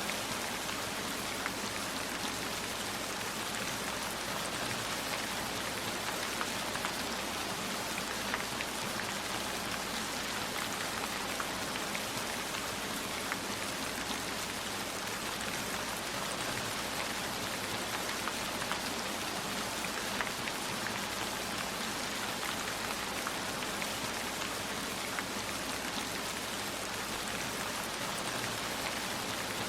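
Steady heavy rainfall, an even hiss with scattered individual drop taps.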